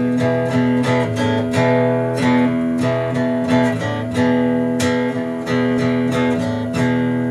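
Acoustic guitar strumming chords in a steady rhythm, with no voice over it: an instrumental break in a live song.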